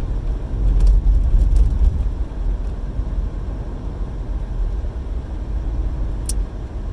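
Car cabin noise while driving: a steady low engine and road rumble, with a few faint clicks.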